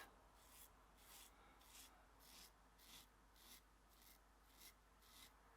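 Double-edge safety razor (Haryali London, Gillette Perma-Sharp blade) scraping through lathered stubble in short, faint strokes, about two a second.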